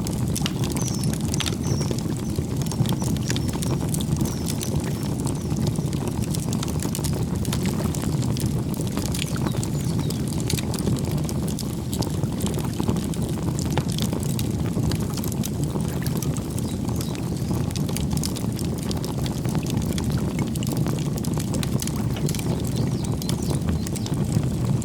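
Campfire burning with a steady low rush and frequent sharp crackles and pops, with a few faint bird chirps about a second in.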